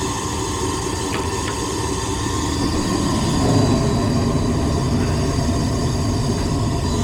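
Older furnace running just after starting up, its motor humming steadily with a rumble that swells a little about halfway through. It is running again now that a fuse has been fitted in place of the missing one.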